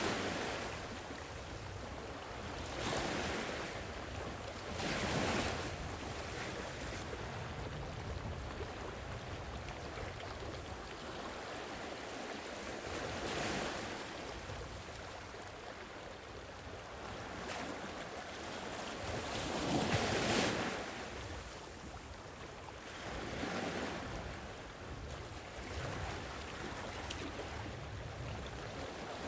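Sea waves washing onto a shore. A steady hiss of surf swells every few seconds as waves break, with the biggest surge about twenty seconds in.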